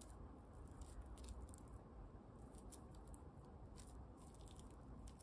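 Faint, soft squishing and small clicks as a peeled banana is squeezed apart by hand and crushed into a glass bowl of flour and egg.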